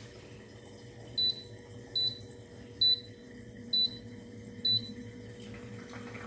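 Air fryer beeping: five short, high electronic beeps a little under a second apart, over a faint steady hum.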